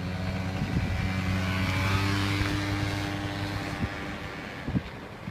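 A minibike engine running at a steady pitch, getting a little louder over the first couple of seconds, then fading gradually as it pulls away.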